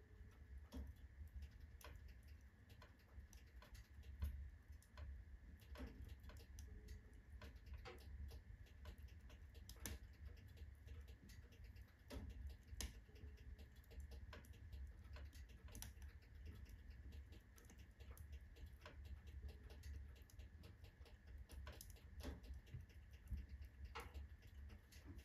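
Faint wood fire of alder and oak logs burning in a fireplace stove: irregular sharp crackles and ticks, a few a second, over a low rumble. Some of the ticks may come from the stove's metal body expanding with the heat.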